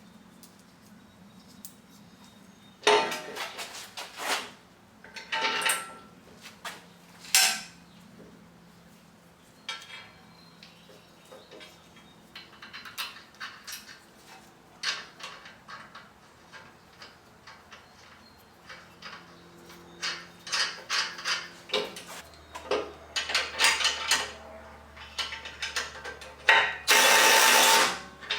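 Hand tools and steel hardware clinking and clanking while fairlead mounting bolts and nuts are run down, with quick runs of ratchet-wrench clicks in the second half and a longer, louder rattle near the end.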